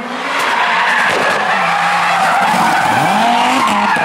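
Group B rally car engine driven hard. The revs climb and drop several times as it shifts gear, and it grows louder in the first half second, then stays loud.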